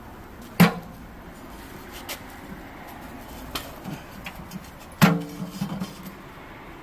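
Two sharp metallic clanks about four and a half seconds apart, the second ringing briefly, with lighter clicks and taps of metal parts or tools being handled between them.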